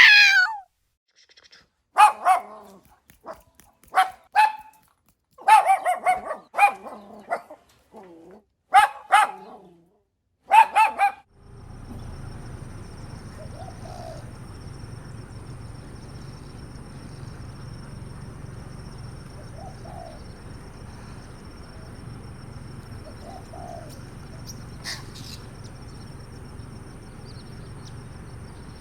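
A dog barking repeatedly in short bursts, about a dozen barks over the first ten seconds or so. It then gives way to a steady background hum with a faint low call every few seconds.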